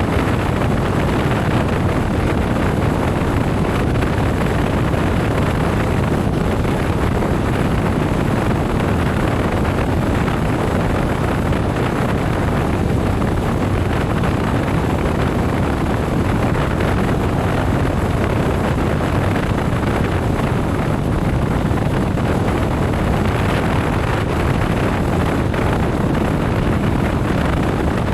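Steady wind rush on the microphone of a motorcycle riding at speed, with the engine and road noise running under it.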